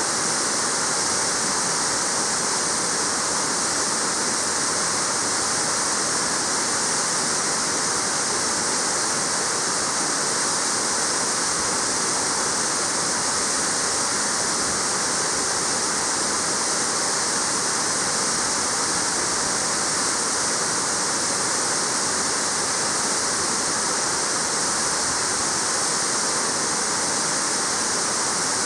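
Waterfall: water falling and splashing continuously, with a steady, even rush.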